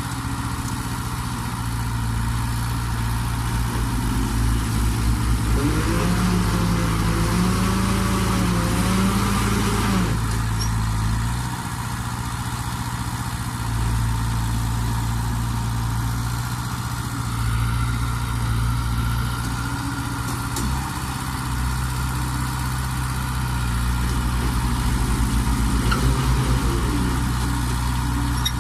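Heavy diesel engines of a bulldozer and trucks running, working to free a dump truck stuck in mud. One engine revs up and down for about four seconds, starting about five seconds in, and briefly again near the end.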